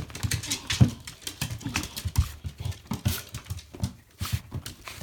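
A Shiba Inu puppy's feet and claws tapping and scrabbling on a hard floor in an excited greeting, with many quick, irregular taps and soft thumps.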